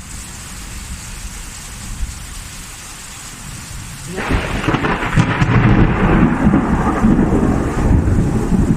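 Steady rain during a thunderstorm; about four seconds in, a loud rolling thunder rumble breaks in suddenly and keeps going.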